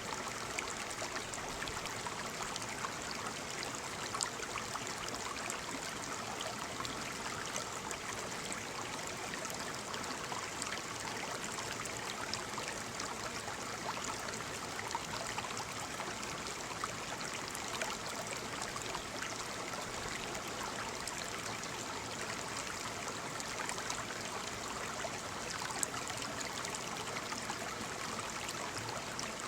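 Waterfall: water falling and splashing in a steady, even rush, with small splashes flicking through it.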